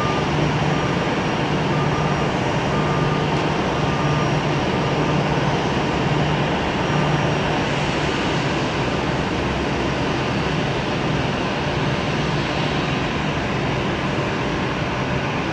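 Aircraft engines running with a steady, even noise and a low hum, with no marked rise or fall.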